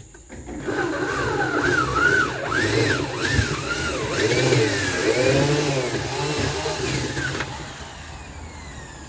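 Power drill boring through a freezer cabinet, its motor pitch rising and falling over and over as the trigger is eased and squeezed under load; it winds down about seven and a half seconds in.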